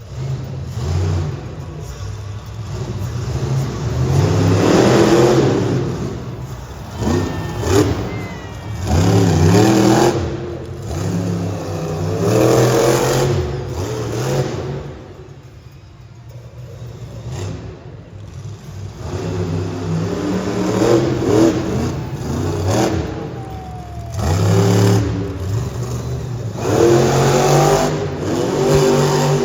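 Monster truck engines revving hard in repeated surges, the pitch climbing and falling every few seconds, with a brief lull about halfway through.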